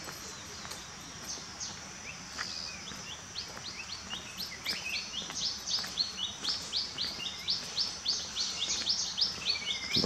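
A songbird calling over and over in short, high, falling chirps, a few scattered at first, then about three a second from roughly three seconds in and growing louder.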